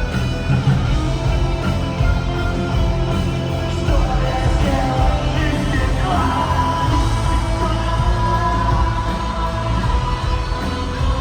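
Live rock band playing on stage, with heavy bass and drums under sustained guitar tones and a voice singing.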